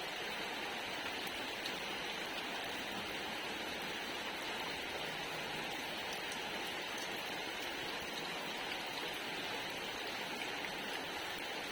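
Steady rain falling, an even patter with a few faint drop ticks.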